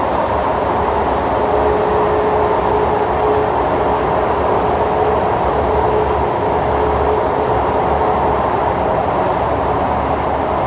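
Interior of a Kawasaki C151 metro train running at speed through an underground tunnel: a steady, loud rumble of wheels and motors with a faint steady tone over it.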